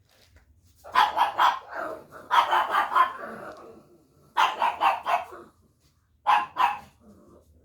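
Dog barking in four short bouts of several quick barks each.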